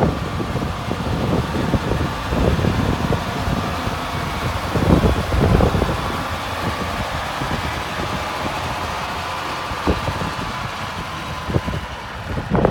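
1989 Peterbilt 375 truck's diesel engine idling steadily, with a few short knocks.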